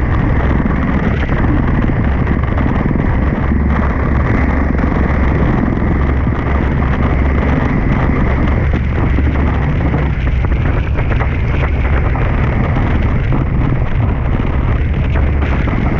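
Strong wind buffeting an action camera's microphone in a loud, steady rumble, with water rushing past the hulls of a Tornado catamaran sailing fast.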